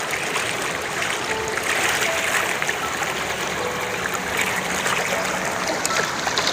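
Flowing stream water running steadily, a continuous rushing and trickling.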